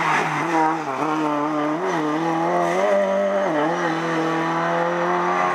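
Lada 2107 rally car's four-cylinder engine held at high revs, its pitch dipping briefly and picking up again a few times as the throttle is lifted and reapplied, then holding steady as the car pulls away.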